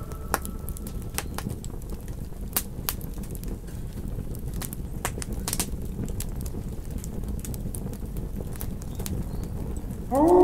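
Campfire crackling with irregular sharp pops over a steady low rush. A wolf howl fades out in the first second or so, and another howl rises in just before the end.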